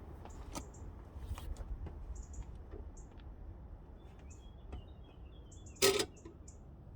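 Small birds chirping: short, high, repeated chirps with a brief warbling call in the middle. A single sharp knock, like a tool or metal part being set down, comes about six seconds in and is the loudest sound.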